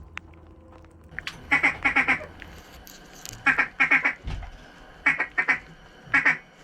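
Mallard hen quacking: four quick runs of loud, rasping quacks, each run a few seconds apart.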